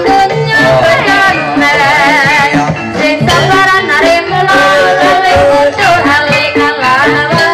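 Live ebeg music: a gamelan ensemble plays steady, ringing tones and a repeating drum beat under a singer's melismatic, wavering vocal line.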